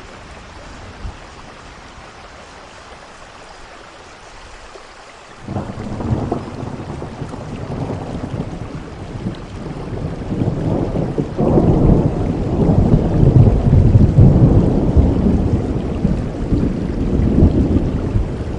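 Steady rainfall, then about five seconds in a long, deep rumble of thunder sets in suddenly and rolls on, building to its loudest a little past the middle and easing slightly near the end.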